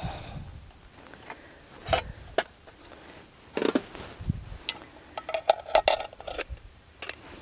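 Small metal mess kit and camp cookware being handled: a string of clinks, knocks and scrapes, with a quick cluster of ringing metal clinks about five to six seconds in.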